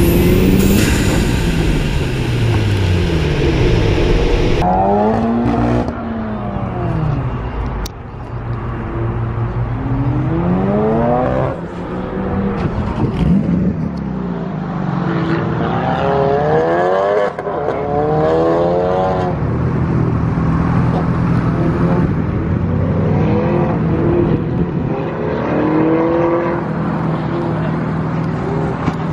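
Car engines revving hard and easing off on an autocross course: the engine pitch rises and falls again and again as the cars accelerate and lift between cones. For the first few seconds a loud rush of wind and road noise from a car on the course covers it.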